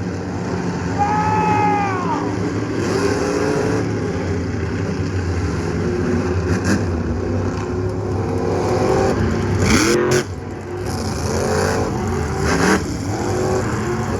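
Monster truck engines running loudly, with several revs rising and falling in pitch and a few short, sharp blips of throttle.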